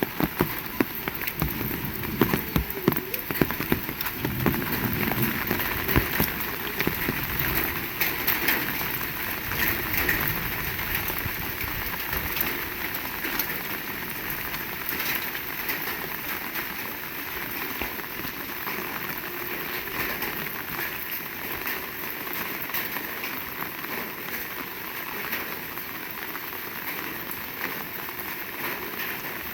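Heavy rain falling: a dense, steady hiss and patter of drops. For the first several seconds there are heavier close drops and knocks, then it settles into an even hiss.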